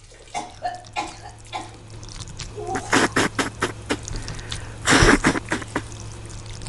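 Wet splattering and squelching noises: a quick run of short sharp bursts that thickens about halfway through, with one longer, louder splatter about five seconds in.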